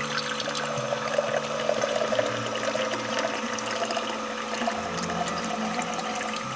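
Running water with a steady rushing sound, over background music with held notes.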